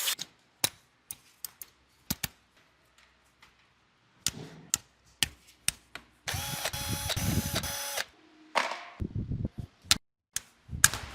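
Tools clicking and knocking on engine parts in a run of separate sharp strikes. In the middle a power tool runs for about two seconds, its whir broken into short pulses. Near the end there is a brief second run of the tool.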